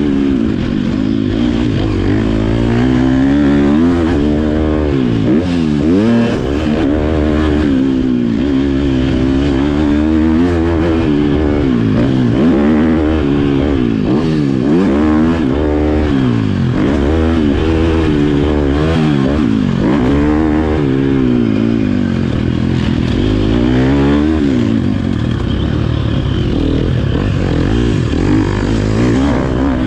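Motocross bike engine revving up and down over and over, its pitch climbing and dropping every second or two as the rider opens and closes the throttle.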